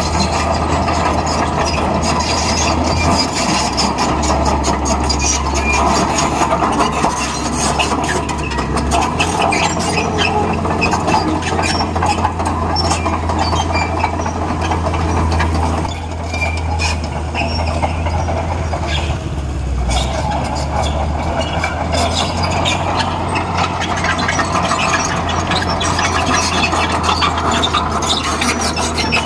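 Bulldozer's diesel engine running steadily, with its steel tracks clanking and squealing; the sound eases briefly about sixteen seconds in.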